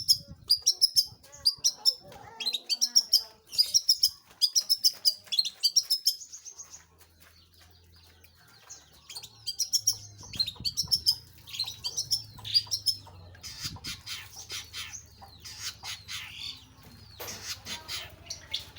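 Long-tailed shrike (pentet/cendet) singing a rapid run of short, high chirping notes. It breaks off for a couple of seconds partway through, then resumes. A faint low hum is under the second half.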